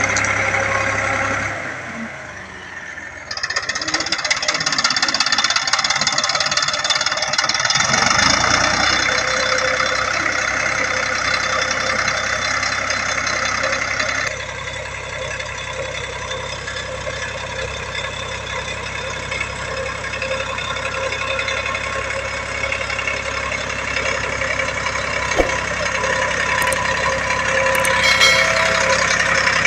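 HMT 3522 tractor's diesel engine running steadily while pulling a working rotavator, with a brief dip in loudness about two seconds in and a slight drop in level about halfway through.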